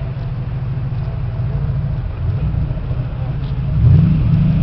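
Larea GT1 race car's engine running at low revs with a choppy beat as the car crawls along, with a brief rev about four seconds in.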